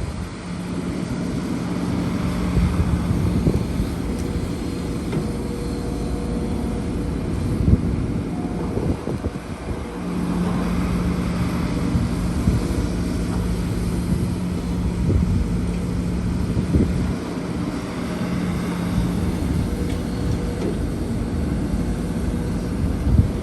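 Heavy diesel engine of an excavator running steadily at a constant pitch, with a few scattered knocks.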